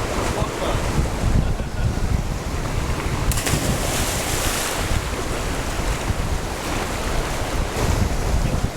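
Ocean waves surging and washing, with wind buffeting the microphone; a louder, hissing rush of water comes about three seconds in.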